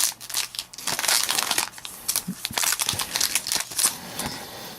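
Trading-card pack wrapper crinkling and crackling as it is torn open and handled, with the cards inside being pulled out.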